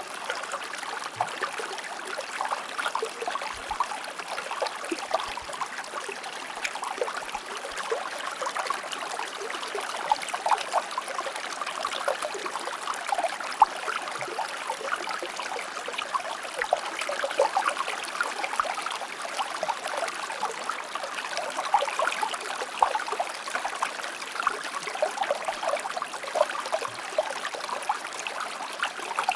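Shallow stream or small river flowing steadily over rocks, with continuous babbling, bubbling and small splashes.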